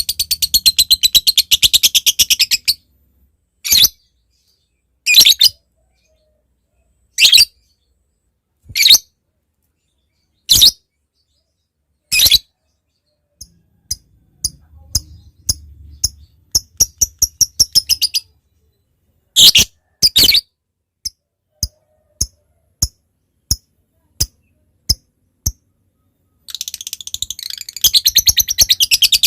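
Lovebird calling: a long, fast, chattering trill (ngekek), then single sharp calls every second or two, a patch of quicker chatter in the middle, and a run of evenly spaced clicking 'ngetik' notes before another long trill starts near the end.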